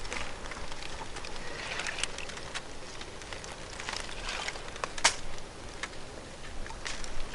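Small scattered clicks and light splashes of hands working in a shallow, cold pool of water, over a faint steady hiss, with one sharper click about five seconds in.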